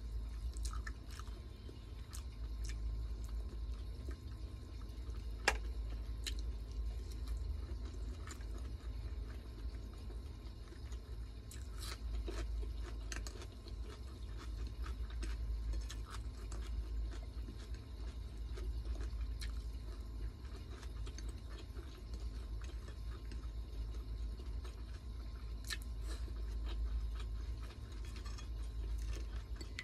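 A person chewing and eating close to the microphone, with scattered small crunches and clicks and one sharper click about five seconds in. A steady low hum runs underneath.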